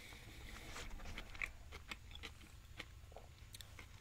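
A person chewing a mouthful of beef power bowl, with soft, scattered mouth clicks.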